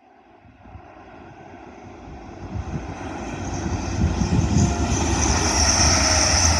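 Grand Central Class 180 Adelante diesel multiple unit approaching at speed along the main line, its engine and wheel noise growing steadily louder, with a high whine coming in over the last couple of seconds.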